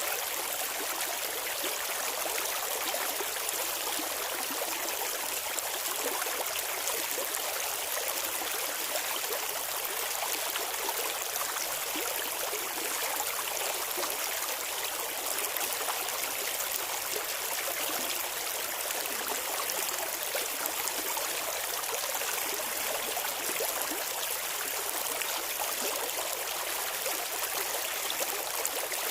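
Shallow stream water running and babbling over stones, a steady even rush with fine splashing.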